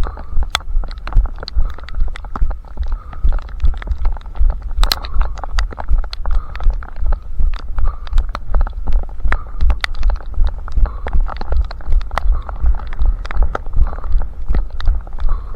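A runner's footfalls jolting a head-mounted camera: a steady rhythm of low thumps, about three a second, with sharp ticks and clicks scattered over a faint steady hum.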